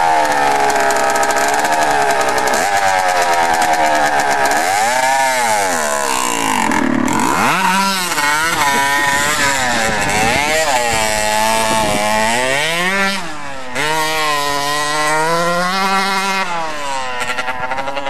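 Dirt bike engine revving up and down over and over, its pitch rising and falling every second or two, with a deep dip about seven seconds in and a brief drop in level a little after thirteen seconds.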